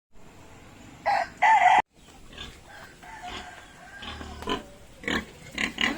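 A rooster crowing loudly in two parts about a second in, then cut off abruptly. Farm animals call more quietly after it, with short louder calls near the end.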